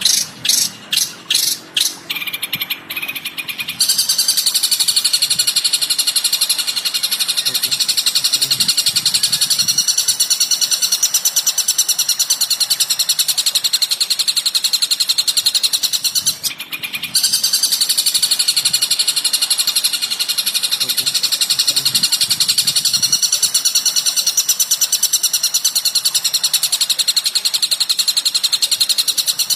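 Recorded songbird calls used as training song for long-tailed shrikes: a few separate loud high chirps about three a second, then from about four seconds in a fast, unbroken high-pitched chattering, with a short break about two-thirds of the way through.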